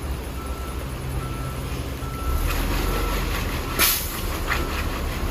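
Heavy truck's reversing alarm beeping steadily, about one beep every 0.8 seconds, over a low diesel engine rumble that grows louder about two and a half seconds in. Near the end comes a short sharp hiss, like an air-brake release.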